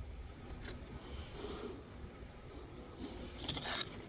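Crickets chirring steadily, with a few faint clicks and a brief rustle a little before the end.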